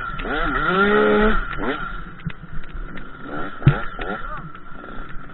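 KTM 85 SX two-stroke single-cylinder motocross bike revving up and down, climbing to a briefly held high pitch about a second in, then dropping back to lighter throttle. A sharp knock sounds a little before four seconds in.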